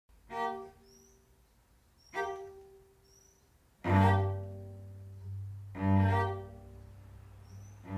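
Solo cello improvising in short, dramatic gestures: five sharply attacked notes about two seconds apart, each ringing and dying away. A deep low note sounds beneath them from about halfway through.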